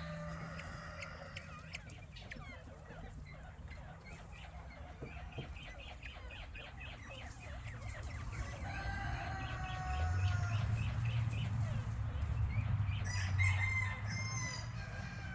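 Chickens clucking in quick runs of short calls, with a rooster crowing around the middle and again near the end. A low steady hum comes in about ten seconds in.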